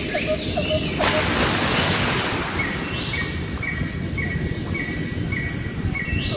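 Steady night-time beach ambience: an even rushing noise, with short low chirps about three a second in the first second and short high chirps repeating about twice a second from about three seconds in.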